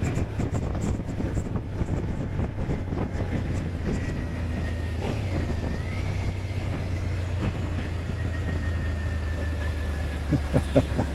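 Motorcycle engine running steadily under way at a constant speed, with a faint high whine that dips and rises again about halfway through.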